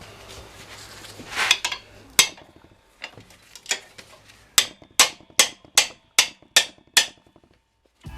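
Hammer blows: two single strikes early on, then a run of seven evenly spaced strikes, about two and a half a second.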